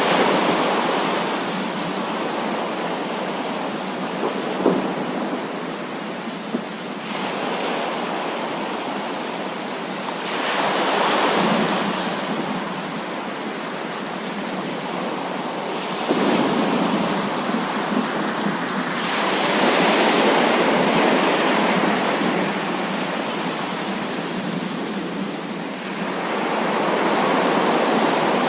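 Heavy rain falling steadily, swelling louder every several seconds as thunder rolls through, with a brief sharp crack about five seconds in.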